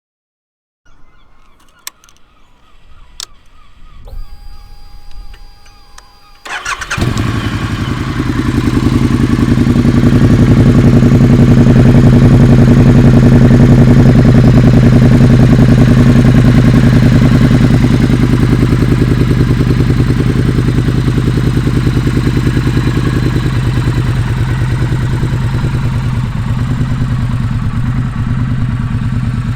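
Triumph Thruxton R 1200 parallel-twin being started and idling through a full stainless 2-into-1 exhaust with the catalytic converter deleted. Faint clicks and a thin whine come first, then the engine catches about six seconds in and settles into a loud, steady idle that grows louder over the next few seconds and eases a little later on.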